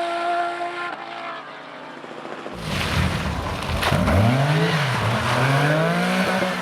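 Porsche rally car engine holding a steady high note that fades away, then after a short quieter gap a rally car engine driven hard, its pitch rising and falling as it revs through gear changes.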